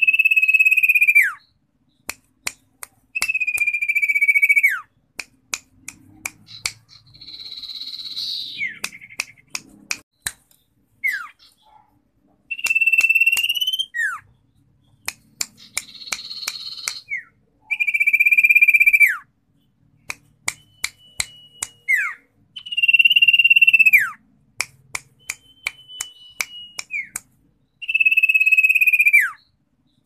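Caged common iora (cipoh) singing: six long, clear whistles, each holding its pitch and then dropping away sharply at the end, with two harsher, buzzy notes among them. Between the whistles comes a scatter of sharp clicks.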